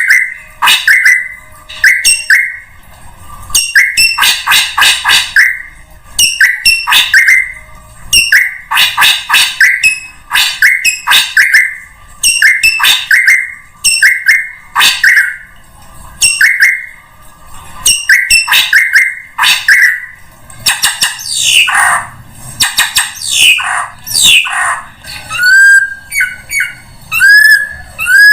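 Drongo calling loudly: repeated bursts of quick chattering call notes every second or two, turning near the end into a run of short rising whistles.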